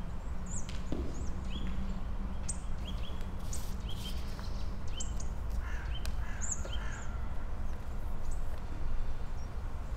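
Outdoor ambience of small birds giving short chirps every second or so, with a few lower calls near the middle, over a steady low rumble.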